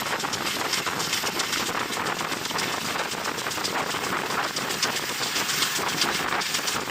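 Passenger train running along the line, heard at an open carriage window: wind rushing over the microphone with a steady fast rattle and clatter from the carriage and rails.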